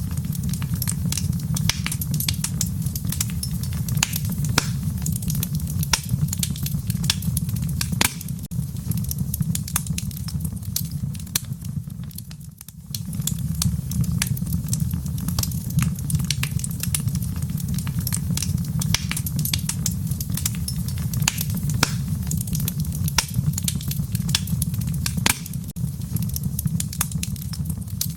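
Wood fire burning in a fireplace, with a steady low rumble of flames and frequent sharp crackles and pops. The whole sound dips briefly a little under halfway through.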